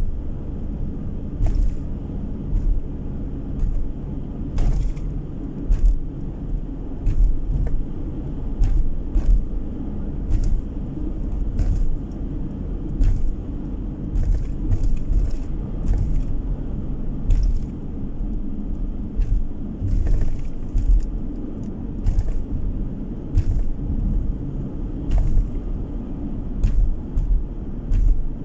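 Car driving on the road, heard inside the cabin: a steady low rumble of engine and tyres, with frequent light clicks and knocks through it.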